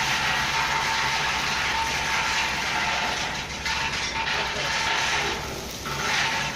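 Hyundai dump truck's diesel engine running, a low, evenly pulsing rumble under a steady hiss; the noise dips briefly twice, about halfway through and near the end.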